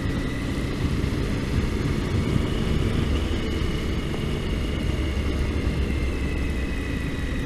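Triumph Tiger motorcycle under way at a steady pace, its engine and road noise running evenly, with a faint steady whine above.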